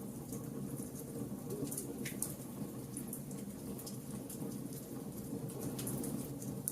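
Wood fire burning: a steady low rumble of flames with frequent small, sharp crackles and pops of the burning wood.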